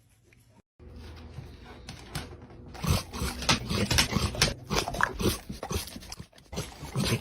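A dog making short, irregular vocal sounds that grow louder about three seconds in.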